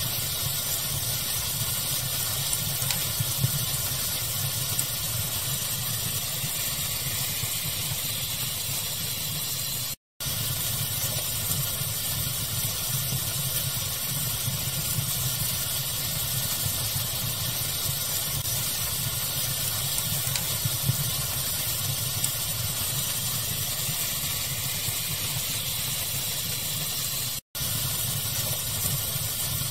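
Steady, even hiss of pink noise mixed with a fire crackling ambience, with a few small pops rising above it. The sound cuts out completely for a split second twice, about ten seconds in and near the end.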